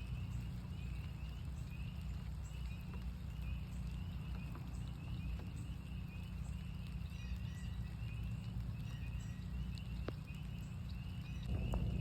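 Northern spring peepers calling in a chorus: a steady run of short, high peeps, about three a second, with scattered raindrop ticks over a low steady rumble. A louder rush comes in near the end.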